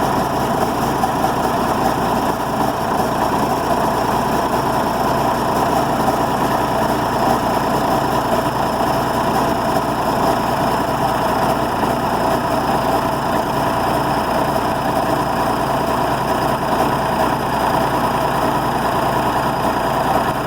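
Scania diesel engine of a Case 4890 tractor idling steadily, still cold just after a cold start at around freezing.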